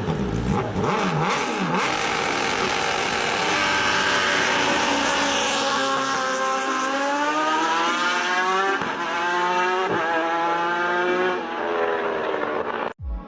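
High-performance motorcycle engine accelerating hard, its note climbing steadily for several seconds, dipping and climbing again briefly, then cutting off abruptly near the end.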